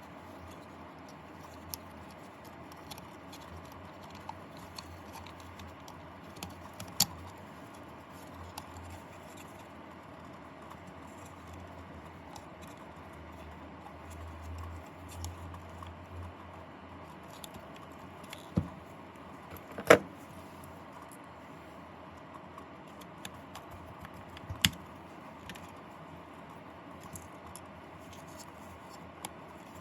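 Scattered small clicks and taps from handling a soap dispenser's circuit board, wires and housing parts during assembly, with a few sharper knocks, the loudest about twenty seconds in. A faint low hum sits underneath.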